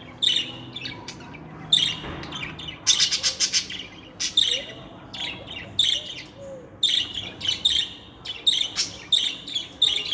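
Budgerigars chirping and chattering in quick, irregular bursts of short high chirps.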